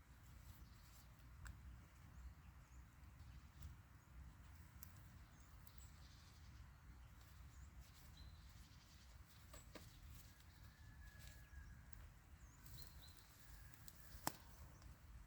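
Near silence: faint outdoor ambience with low rumble, a few faint bird chirps, and scattered small clicks. One sharp click comes near the end.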